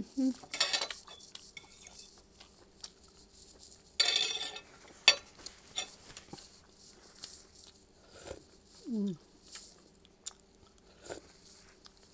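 Close-up eating sounds: a person chewing and crunching food, with a few brief rustles and scattered light clicks of a spoon and fork against a plate.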